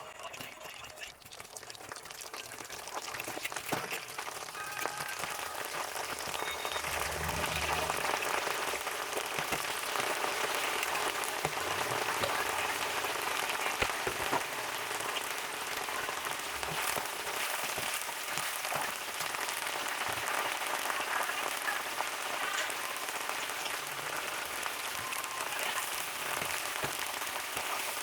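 Food deep-frying in hot oil: a steady sizzle with fine crackles that builds over the first several seconds and then holds.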